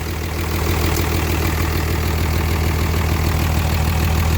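A 5.9-litre Cummins straight-six diesel with twin turbos, in a Dodge Ram 2500, idling steadily with diesel clatter, heard close to the open engine bay; it grows slightly louder about a second in.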